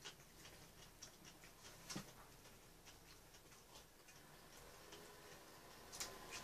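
Near silence with faint, irregular small clicks of chewing and mouth sounds, and a light tap of a utensil on a dish about two seconds in and again about six seconds in.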